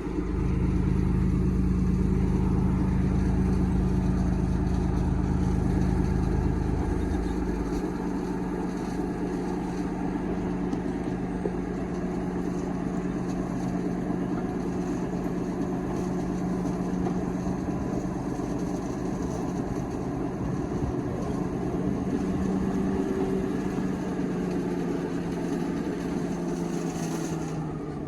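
Diesel locomotive engine running at a steady note, with a heavy low rumble that drops away after about seven seconds while the engine note carries on.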